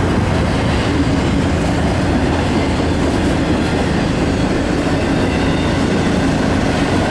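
Train rolling past at close range: a steady, loud clatter of wheels on the rails.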